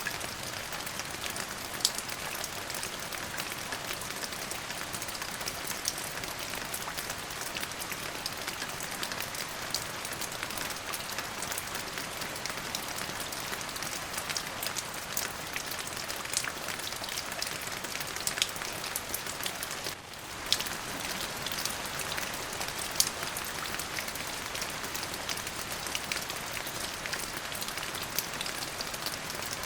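Steady rain: a dense, even hiss with many individual drops ticking sharply on a surface. The sound dips briefly about two-thirds of the way through, then resumes.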